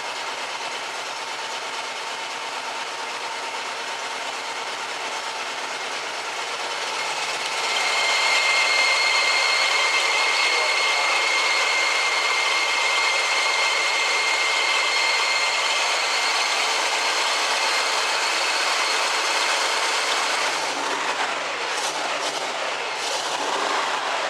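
1968 Chevrolet El Camino's engine running steadily with the air conditioning on during an A/C performance check. About seven seconds in the noise gets louder and a steady high whine comes in, which eases back near the end.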